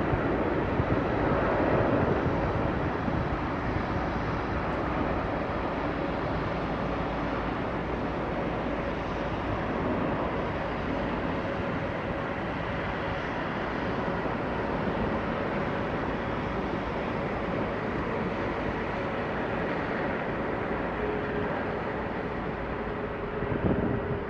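Four-engine Airbus A380 jet engines on arrival: a steady rush of jet noise with a faint hum that drops a little in pitch near the end.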